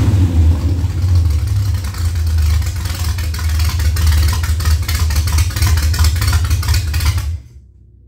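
Chrysler slant-six race engine (about 13:1 compression, 272° cam) idling through short open headers with a rapid pulsing beat, then shut off, cutting out abruptly about seven seconds in.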